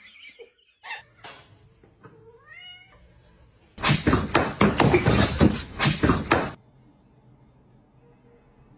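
A cat meows once, its pitch rising, a little over two seconds in; from about four seconds in comes nearly three seconds of loud, scratchy noise with many sharp strokes.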